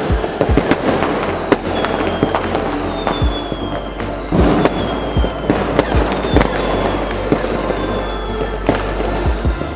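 Fireworks going off in a rapid, irregular string of bangs and crackles, heard over background music with a steady bass.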